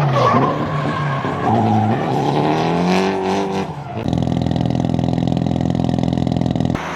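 Car engine revving, its pitch climbing over a couple of seconds, then a sudden change to a steady engine note held at high revs for nearly three seconds.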